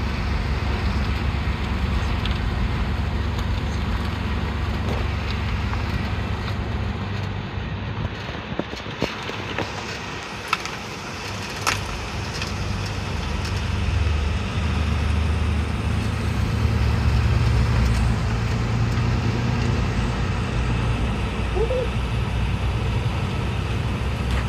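Subaru WRX's turbocharged flat-four engine running as the car drives around, a steady low rumble that gets louder for several seconds past the middle.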